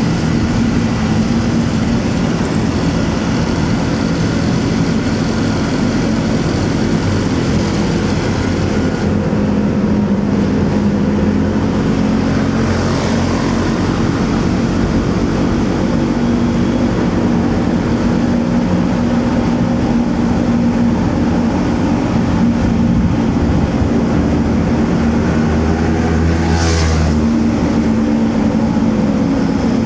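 Motorcycle engine running steadily under a ride, mixed with road and traffic noise. Near the end a brief, louder sound rises and falls, as of another vehicle passing close by.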